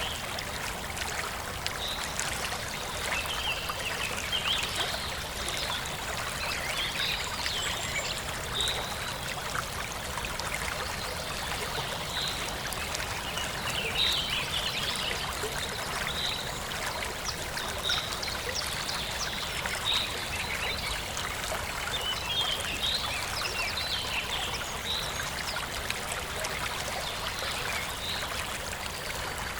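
Forest stream trickling and babbling steadily, with small birds chirping over it: short high calls repeated every second or two.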